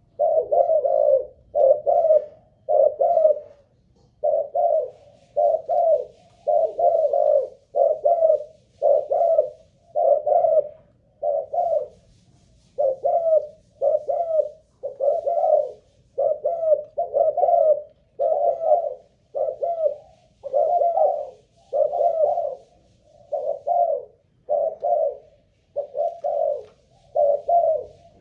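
Spotted dove (cu gáy, Malaysian strain) cooing on and on in a long run of low coos, about one a second, with only a couple of brief pauses. It is a stamina test of the bird's song.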